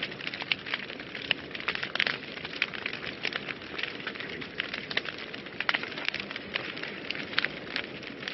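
Wood fire burning in a fireplace, crackling steadily with many sharp pops and snaps, several a second, over a soft rushing hiss.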